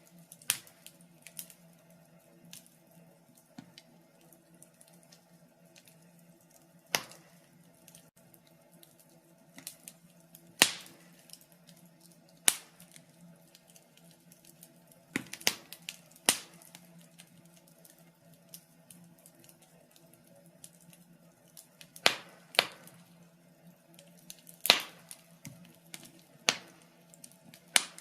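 Wood fire in a fireplace crackling, with irregular sharp pops, a few much louder than the rest, sometimes two or three close together. A faint steady hum runs underneath.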